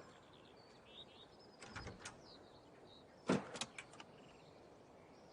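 Faint birds chirping over quiet outdoor ambience, with two short clusters of knocks, the louder about three and a half seconds in.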